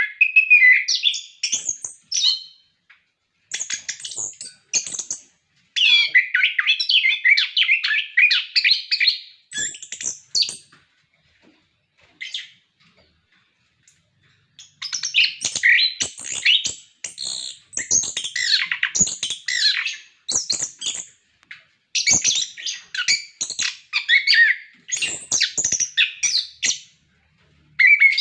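Chestnut-capped thrush (anis kembang) singing in full song: fast, varied, high-pitched warbling phrases of a few seconds each, with a pause of about three seconds in the middle.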